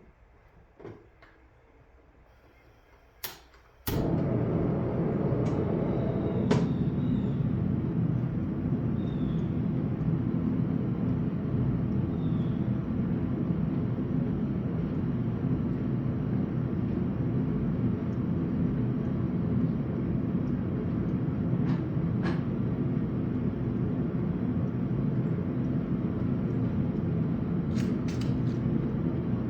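A blacksmith's forge starts suddenly about four seconds in and then runs with a steady low rushing noise. A few light clicks and knocks sound over it.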